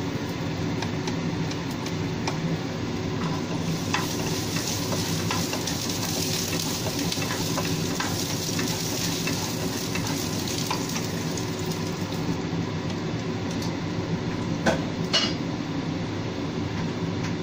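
Minced garlic sizzling in hot oil in a nonstick pan while a utensil stirs it, with scattered clicks and scrapes against the pan. The sizzle is strongest in the middle, and there are two sharp knocks near the end. A steady low hum runs underneath.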